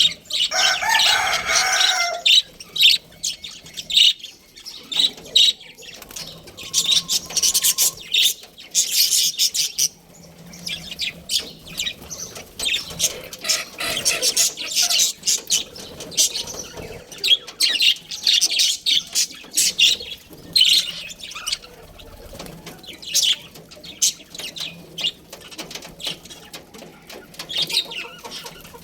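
Budgerigars chirping and chattering in rapid, overlapping short high calls. A louder, lower call stands out in the first two seconds.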